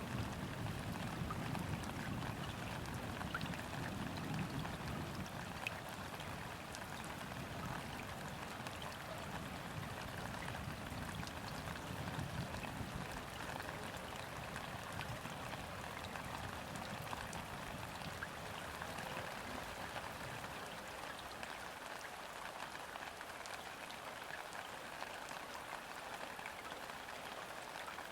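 Steady rain falling onto a river's surface, a dense patter of small drops on water. Under it runs a low rumble of distant thunder that dies away about twenty seconds in.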